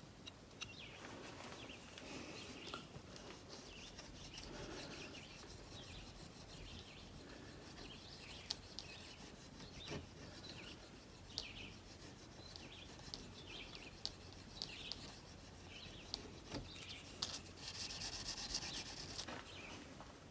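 Faint rubbing and light scraping of a freshly sharpened and stropped antique steel gouge's edge as it is handled and tested, with a louder hissing scrape near the end. Short bird chirps can be heard in the background.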